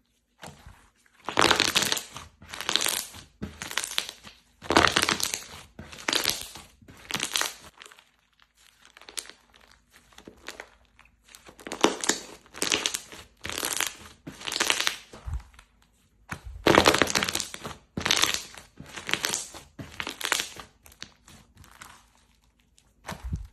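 Slime being squeezed and pressed by hand, heard as a run of short noisy bursts with brief pauses between them.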